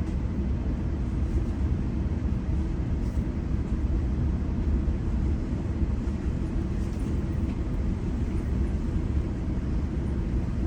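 Steady low rumble of a GO Transit commuter train running at speed between stations, heard from inside a passenger coach.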